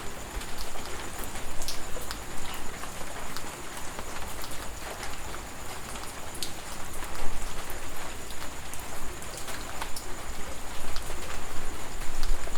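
Steady heavy rain, an even hiss dotted with many sharp individual drop hits.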